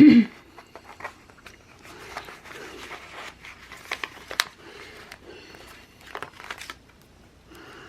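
Sticker sheets and planner paper being handled: crinkling and rustling paper with scattered small clicks and taps.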